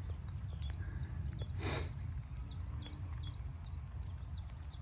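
Common chiffchaff singing close by: a steady run of short, high, clipped notes, about three a second. A short burst of noise cuts across it about a second and a half in.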